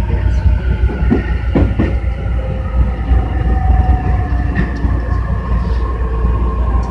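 Tobu 60000 series electric train running, heard from inside the car: a steady heavy rumble of wheels on rail with steady motor and inverter tones over it, and a few rail-joint clacks about a second and a half in.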